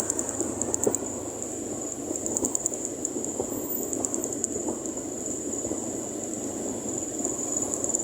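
Steady rumble of a ride on a motorcycle, with a constant high-pitched whine over it and a few scattered clicks.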